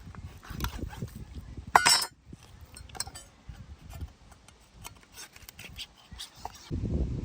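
Scattered clinks and knocks of cooking utensils and dishes being handled, with one louder clatter about two seconds in.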